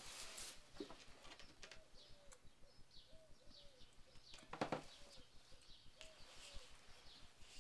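Faint bird calls: low arched cooing notes repeated in small groups, with short high chirps in between. A brief rustle or knock about four and a half seconds in.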